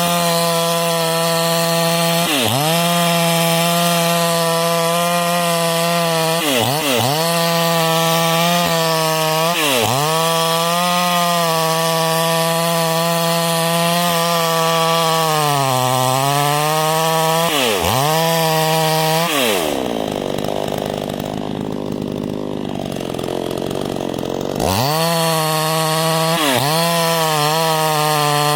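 ECO 52-18 two-stroke petrol chainsaw running at high revs and cutting wood, its pitch dipping briefly several times as the chain bogs in the cut. About two-thirds of the way through it drops to idle for about five seconds, then revs sharply back up.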